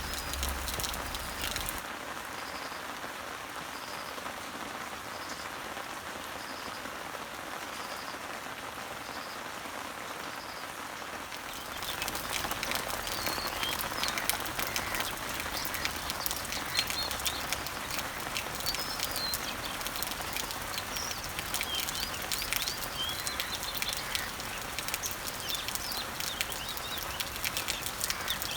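Steady rain pattering on garden leaves, with birds chirping in the background. About twelve seconds in the rain grows louder, with many more distinct drops. Before that, a short high note repeats about once a second.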